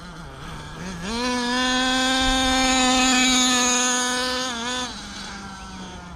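CXP .26 nitro two-stroke engine of an HSP 1/8-scale RC monster truck, running low at first, then opening up about a second in to a steady high-pitched note at full throttle. It holds this for about four seconds, then drops back to a low idle.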